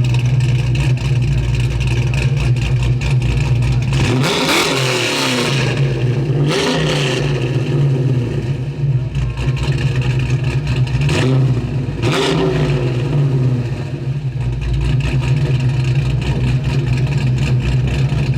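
1963 Chevrolet Impala SS's engine idling steadily, blipped hard four times: about four and a half and six and a half seconds in, then twice in quick succession around eleven and twelve seconds.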